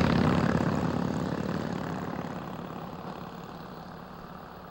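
A motorcycle engine passing close and fading away, its rapid, even firing pulses getting steadily quieter.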